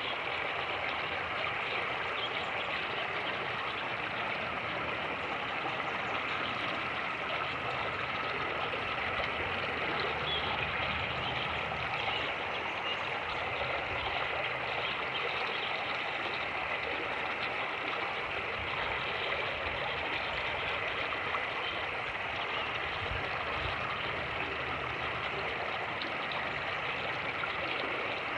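Fast-moving creek water rushing steadily over rapids, with occasional low wind rumble on the microphone.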